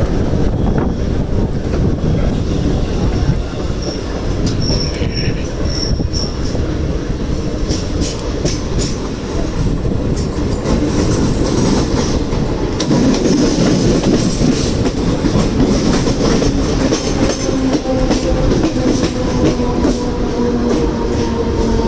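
Mumbai suburban electric local train running, heard from its open doorway: a steady rumble with wheels clicking over rail joints and a brief high wheel squeal about five seconds in. Near the end a falling whine comes in as the train runs alongside a station platform.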